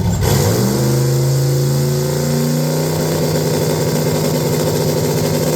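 A vehicle engine running. Its revs fall over the first few seconds, then hold at a steady speed.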